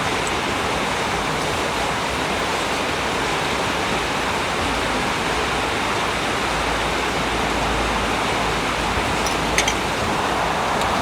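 Heavy rain pouring down in a steady hiss, with a couple of brief clicks about nine and a half seconds in.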